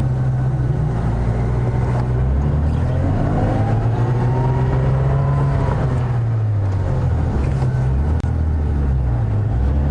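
Safari vehicle's engine running as it drives over bush tracks, its pitch rising about a third of the way in, holding, then easing back down.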